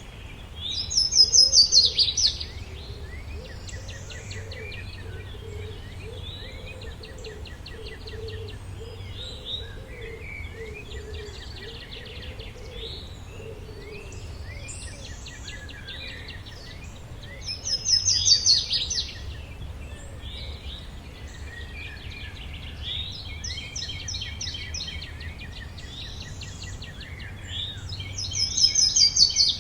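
Forest bird chorus: several songbirds chirping and trilling together, with one loud falling song phrase repeated three times, about ten seconds apart, over a steady low rumble. A faint, lower warbling call runs through the first half.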